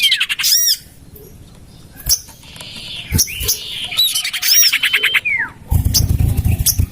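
Common iora (sirtu/cipoh) calls played as a bird lure: quick chattering trills, high arched chips and falling whistles, repeated twice. A low rumble joins for the last second or so.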